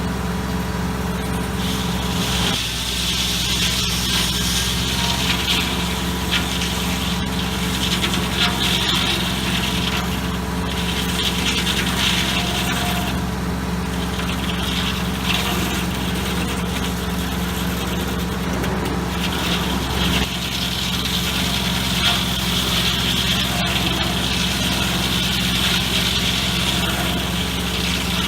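An engine running steadily at a constant speed, with a higher hiss that comes and goes over it.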